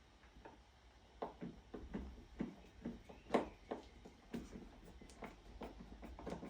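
Irregular light clicks and knocks of plastic parts and small screws being handled during assembly, the loudest about three and a half seconds in.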